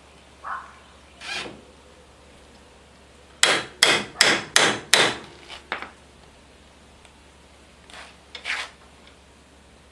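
Hammer blows: five quick, sharp strikes about a third of a second apart, then a lighter one. Softer scraping and rubbing sounds come before and after.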